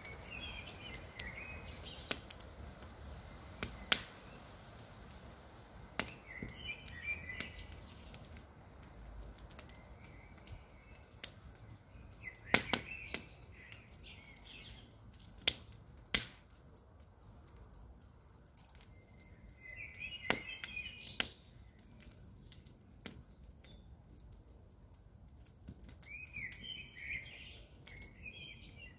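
Campfire crackling, with sharp single pops every second or two, the loudest about four, twelve and sixteen seconds in. A bird sings short chirping phrases in the background about every six or seven seconds.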